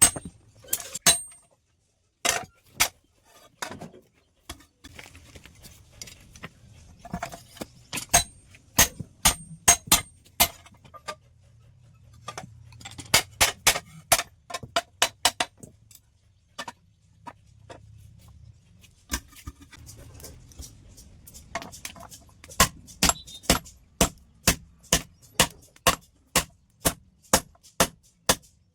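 Hammer blows on a steel plate being forged into a hoe. The strikes come in quick runs of about three a second, with short pauses between runs, and some blows ring metallically.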